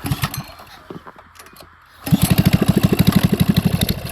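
Gas mini bike's small single-cylinder engine being started: a few quiet sputters, then it catches about halfway through and runs with a loud, even, rapid putter.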